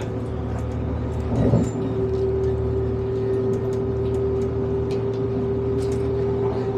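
Diesel passenger train running, heard from inside the carriage: a steady low engine drone, with a short knock and then a steady whine joining about a second and a half in.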